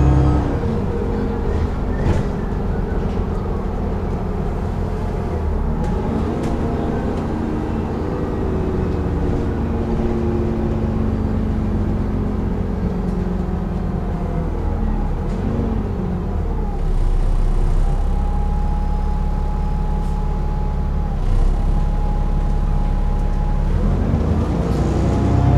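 Dennis Trident 2 double-decker bus with Alexander Enviro 400 body, heard from on board: the engine and driveline ease off at the start, then run on with whines that rise and fall as the bus pulls through its gears. A steady high whine holds for a few seconds past the middle: the vacuum-cleaner-like 'hoovering' note these buses are known for. The engine pulls harder again near the end.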